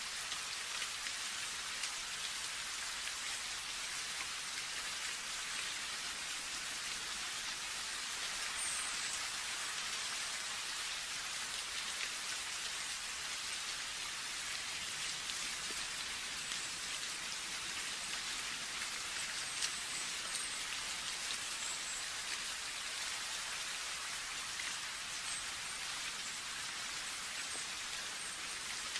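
Steady rain, a dense even hiss with many small drops pattering on a surface.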